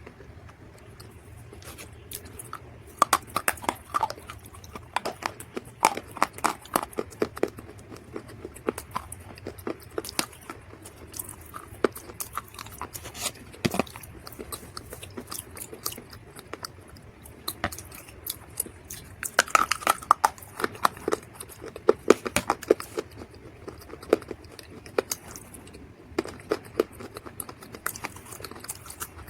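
Dry mud or clay crunching in uneven runs of sharp crackles, as it is bitten and chewed, with a denser run about two-thirds of the way through.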